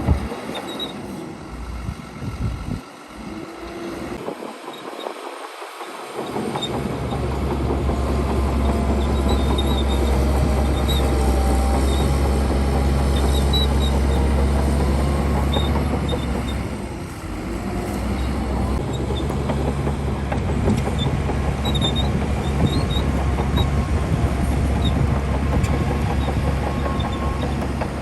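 Diesel engines of earthmoving machinery (bulldozer and dump trucks) running under load, a deep steady drone that firms up about six seconds in and eases briefly past the middle.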